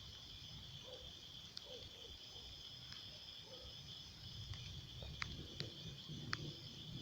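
Crickets trilling steadily in a night chorus, in a continuous shrill band with a fainter higher band. A few sharp ticks come in the second half over a faint low rumble.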